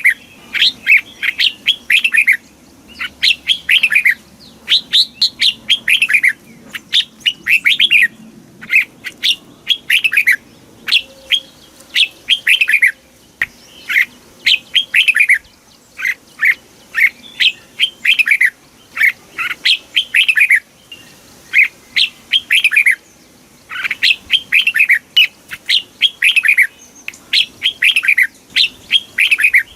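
Red-whiskered bulbul singing: short, quick phrases of clear whistled notes that sweep down in pitch, repeated over and over with brief pauses between.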